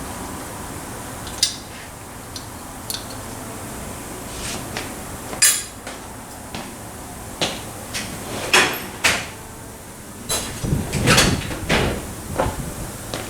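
Metal tools and parts clinking and knocking at irregular intervals as a Suzuki Carry's rear brakes are taken apart, with a quicker cluster of knocks about eleven seconds in.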